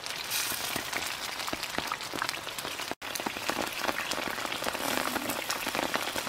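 People eating fried fish by hand: a dense run of crunchy chewing, lip smacking and small wet mouth clicks.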